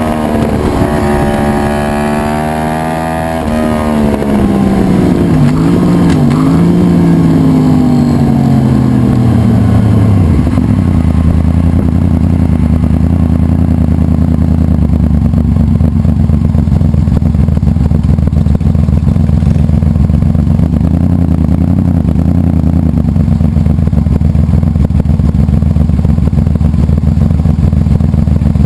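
Built 2011 Yamaha R1's crossplane inline-four, revved in neutral. The revs hang and then fall away with a couple of small dips, settling about ten seconds in to a steady idle.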